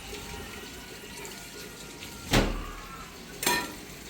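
Steady running or splashing water, with two sharp knocks about a second apart, the first the louder.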